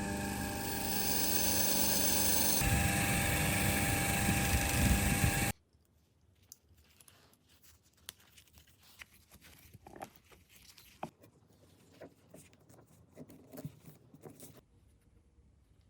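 A small electric power tool running steadily, its note shifting about two and a half seconds in, then stopping abruptly about five and a half seconds in. After that come only faint light clicks and scrapes of metal parts being handled.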